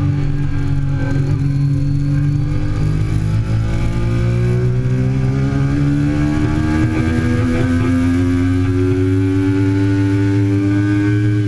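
2008 Triumph Daytona 675's inline three-cylinder engine running hard at speed. Its pitch dips slightly at first, then climbs slowly through the second half as the bike accelerates.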